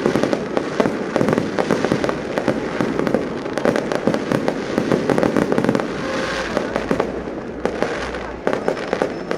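Aerial fireworks going off in a dense, continuous run of bangs and crackling pops, one burst overlapping the next with no pause.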